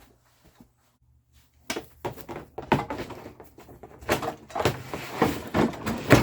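A near-silent start with a faint low hum, then, from about two seconds in, a busy run of irregular knocks and clunks, several a second.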